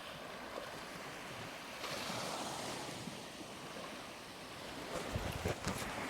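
Ocean surf washing ashore, a wave's wash swelling about two seconds in. A few soft low thumps near the end.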